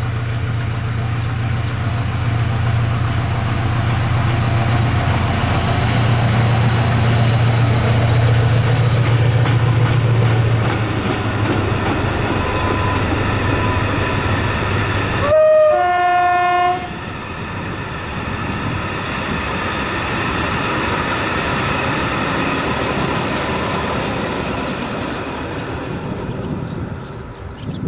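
SM42 diesel locomotive passing with a train of wagons: its diesel engine drones loudly, then the horn sounds once for about a second just past the middle, and the train rolls on.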